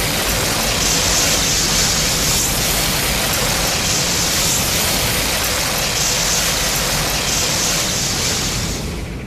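A steady, loud rushing hiss: a sound effect from a Godzilla film's sound library, fading out at the very end.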